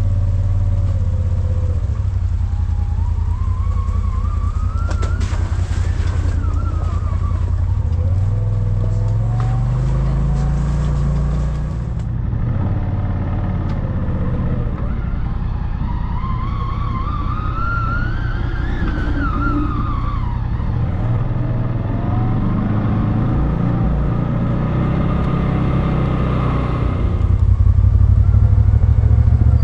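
Off-road vehicle engine running as it drives along a dirt trail. A whine rises and falls twice as it speeds up and slows, and it gets louder near the end.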